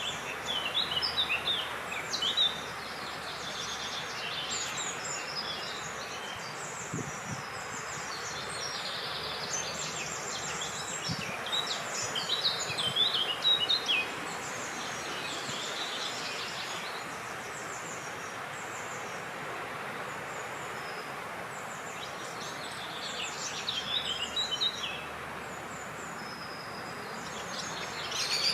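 Songbirds chirping and twittering in bursts of quick high notes, over a steady hiss of wind.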